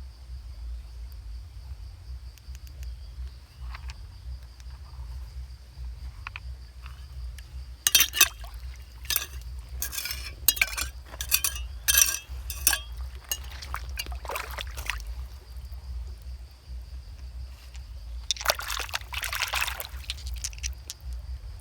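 Hard stones clinking and knocking together in a quick, irregular run, then a denser rush of splashing, rattling noise lasting about two seconds near the end. A steady high insect drone runs underneath.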